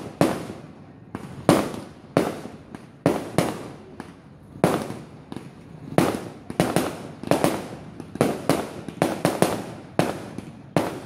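Fireworks going off overhead: an irregular string of sharp bangs, roughly two a second, each trailing off in a short echo.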